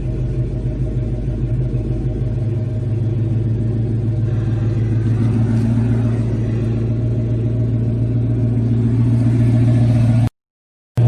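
1989 Chevy Caprice's 350 V8 idling through Flowmaster mufflers, a steady deep rumble that grows slightly louder. Near the end the sound cuts out abruptly for under a second.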